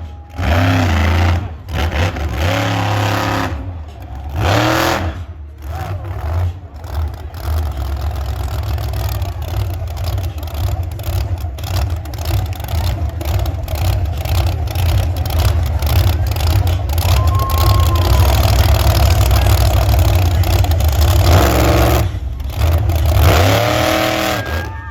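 Monster truck engine running hard and revving, with the pitch rising and falling repeatedly near the start and the end and a sustained loud stretch in the middle. The sound is broken by many brief gaps.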